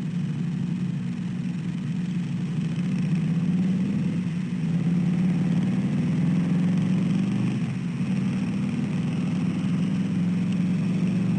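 Steady low engine hum, like a motor idling, with no clear change in pitch.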